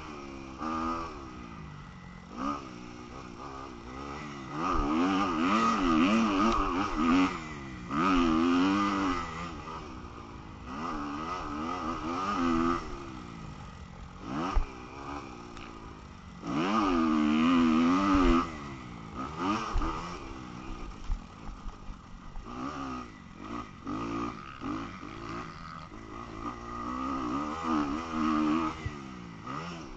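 Motocross dirt bike engine at race pace, revving up and down again and again as the throttle is opened and shut. There are several loud, rising pulls, the strongest about four, eight and seventeen seconds in, and a few sharp knocks in between.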